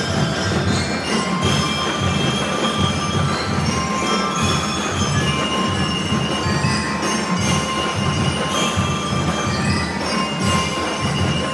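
Drum and lyre corps playing: bell lyres ring out held melody notes over a steady drum beat, with cymbal crashes every few seconds.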